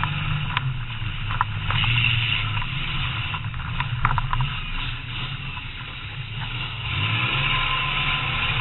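Demolition derby car's engine running, heard from inside the gutted cab, easing off a little for a couple of seconds past the middle. A few sharp clicks and knocks sound over it.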